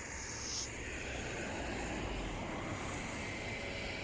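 Road traffic: a steady rush of passing car noise that swells slightly after about a second.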